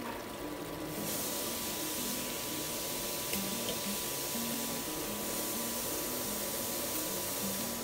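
Steady sizzling hiss of an oily onion-tomato masala frying in a pot, starting about a second in and stopping near the end, with soft background music notes underneath.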